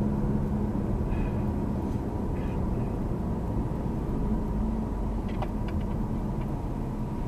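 Steady low rumble of a vehicle driving on the road, heard from inside the moving vehicle, with a few faint clicks about five to six seconds in.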